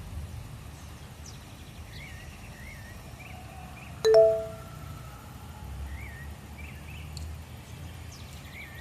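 Low steady background rumble with short warbling chirps every second or two, and one bright ding about four seconds in that rings on briefly.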